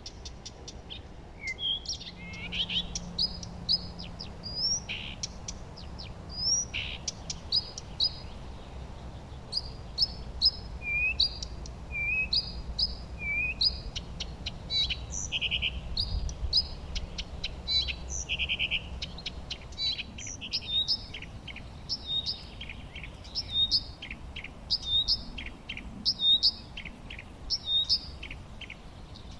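Several songbirds singing and chirping together: many short high notes that overlap, with some falling whistles and quick trills mixed in, over a faint low background rumble.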